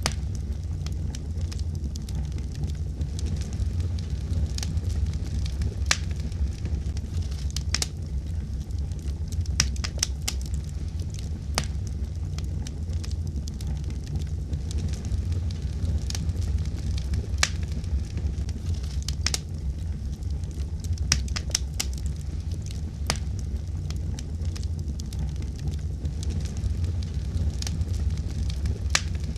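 Wood fire burning in a fireplace: a steady low rumble with irregular sharp crackles and pops every second or so.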